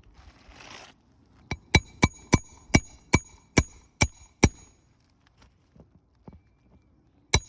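Hammer striking a metal roofing 'snake' tool to drive nails into asphalt shingles: nine quick ringing strikes, about two and a half a second, then one more near the end. A brief scrape comes first.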